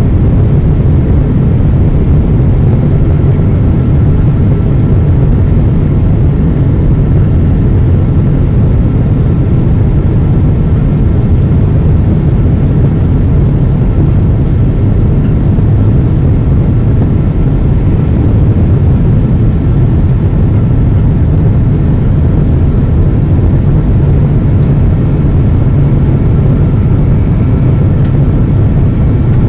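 Steady cabin roar of a Boeing 777-200 airliner on its approach, heard from inside the passenger cabin: engine and airflow noise, with a faint steady whine over it.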